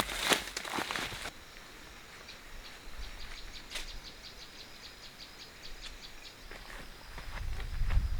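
Footsteps crackling through dry leaves and brush for about a second, then a quieter stretch with faint rapid high ticking chirps; near the end a low rumble comes in with crackling steps again.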